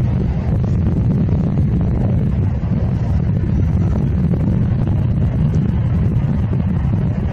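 Diesel-powered push-pull commuter train passing, its locomotive pushing from the rear: a steady, loud low rumble of engine and running gear, with wind buffeting the microphone.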